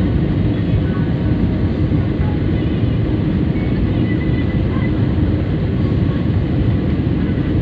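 Steady low rumble of an airliner's engines and airflow heard from inside the passenger cabin during the landing.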